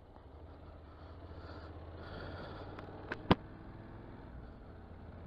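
Motorcycle running at low level with a steady low hum, and two sharp clicks about three seconds in, the second one louder.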